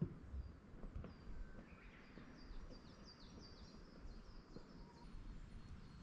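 A songbird calling in a quick series of short, falling high notes, about two to three seconds in, over a quiet forest background. A few soft footsteps on a wooden boardwalk come in the first second.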